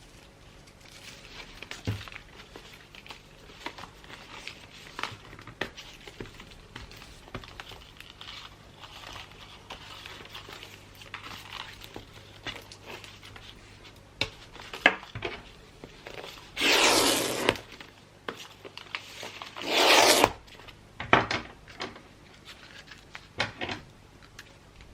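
Gift wrapping by hand: paper rustling and small clicks and taps, with two loud tearing sounds of just under a second each, a few seconds apart, about two-thirds of the way in, then a few sharp ticks.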